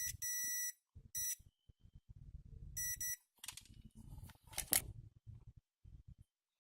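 Multimeter continuity beeper sounding in short, high beeps, four times in the first three seconds, as the probes touch the phone's circuit board: the beep signals that the board is still shorted. A few scratchy clicks follow about four to five seconds in.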